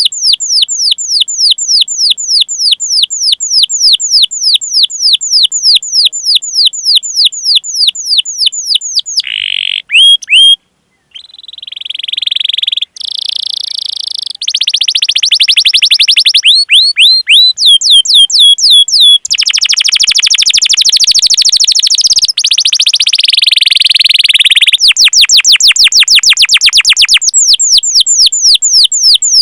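Domestic canary singing loudly: a long run of quick downward-sweeping chirps, about five a second, then a short break about eleven seconds in, varied phrases and fast rolling trills, and the sweeping chirps again near the end.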